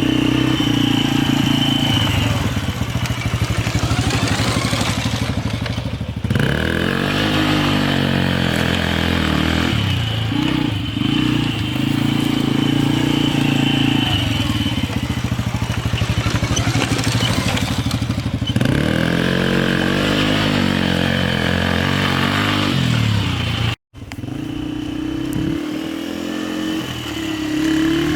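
Engine of a 1990 Polaris quad (ATV) being ridden, revving up and down, its pitch climbing and falling back several times. The sound drops out for an instant near the end.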